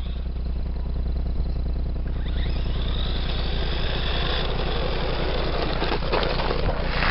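Hobby People Sandstorm 2WD RC buggy running on dirt, its motor whining and growing louder from about two seconds in, over a steady low rumble.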